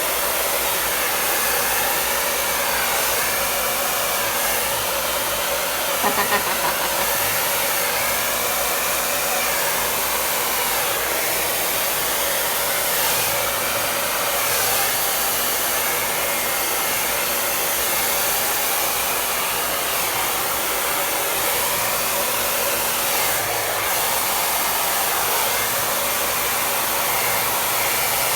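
Hand-held hair dryer running steadily, blowing a stream of air.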